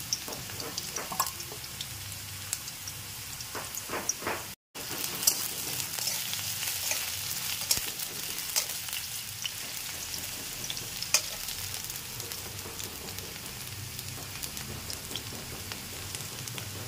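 Potato slices sizzling and crackling in hot oil in a metal kadai, with a metal spatula now and then scraping and clicking against the pan as they are stirred. The sound cuts out briefly about four and a half seconds in.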